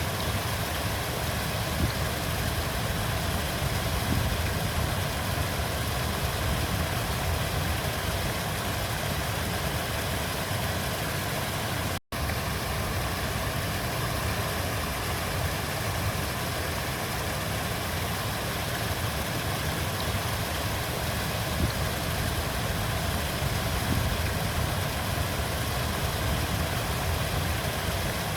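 River water flowing steadily, an even noise heaviest in the low range. It drops out completely for an instant about twelve seconds in.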